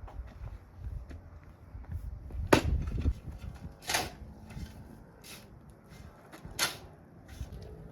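Handling sounds: four sharp knocks spaced about a second apart, the loudest about two and a half seconds in, over a low rumble.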